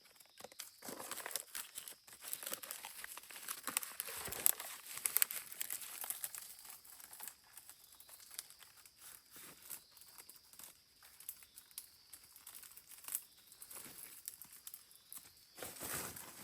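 Crinkling and rustling handling noise with many small clicks, busiest in the first half and again near the end, over a faint steady high-pitched hum.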